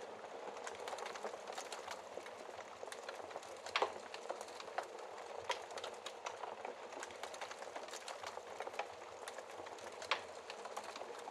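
Wood fire crackling in a fireplace: a steady hiss with scattered sharp pops, the loudest about four seconds in and again near the end.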